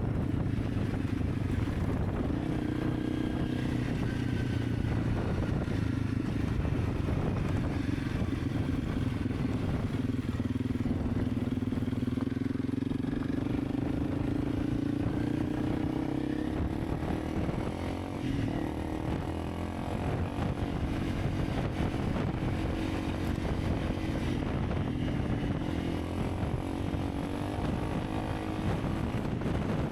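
Honda CRF300 Rally's single-cylinder engine running as the bike is ridden along, its pitch slowly rising and falling, easing off briefly about eighteen seconds in.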